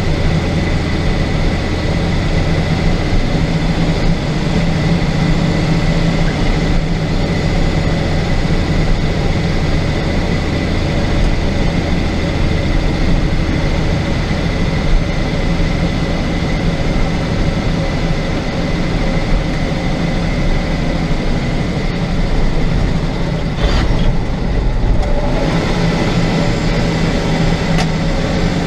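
Truck engine and road noise heard from inside the cab while driving at a steady pace: a continuous low engine hum with a faint high whine over it, shifting briefly near the end.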